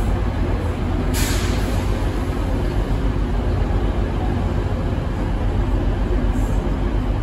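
Multiple-unit passenger train pulling out of the station, its steady low running noise filling the platform, with a short hiss of air about a second in.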